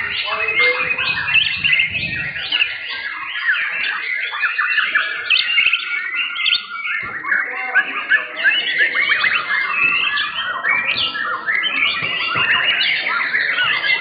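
Several caged white-rumped shamas (murai batu) singing at once, a dense run of fast overlapping whistles and chirps.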